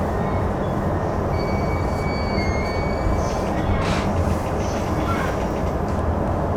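Electric commuter train running at speed, a steady rumble of wheels on rail heard from inside the front car, with a faint high thin whine briefly near the middle.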